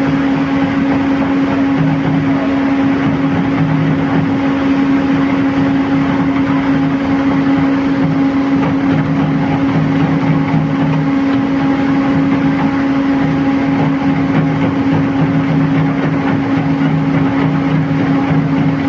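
Cement mixing machine running steadily: a constant hum over dense, even noise.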